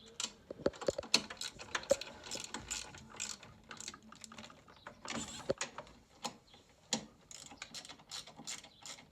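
Irregular metallic clicks and knocks of stairlift parts being handled and fitted onto the rail, with a run of quicker, evenly spaced ticks near the end.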